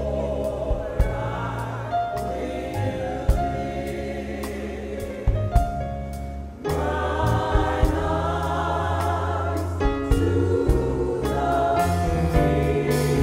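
Gospel choir singing sustained chords over a band with deep bass notes and drum hits.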